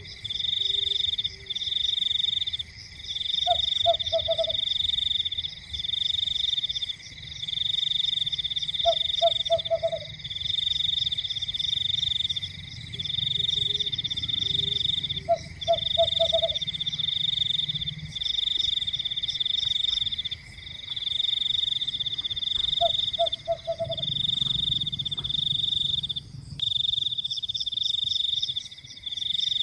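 Frogs calling: a high, rapidly pulsed trill repeated in bursts of one to two seconds with short gaps, and every five to seven seconds a lower croak of three or four quick notes.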